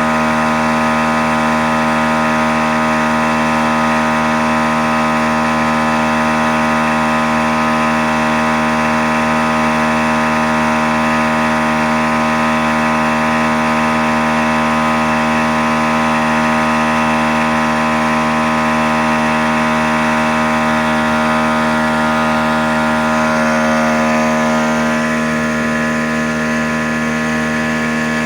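Outboard boat motor running at a steady speed, its note holding one pitch. About 24 seconds in the tone shifts slightly and it gets a little quieter.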